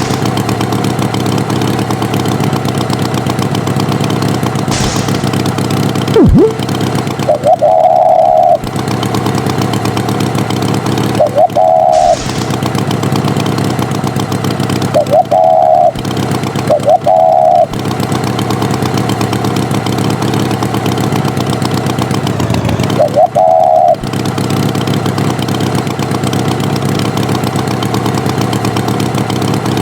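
Tractor engine sound effect running steadily. Five short, loud high tones sound over it at uneven gaps.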